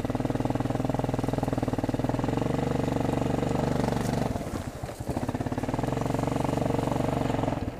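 Four-wheeler (ATV) engine running under throttle at a fairly steady pitch while riding a trail. It eases off briefly a little over four seconds in, then picks back up, and eases again near the end.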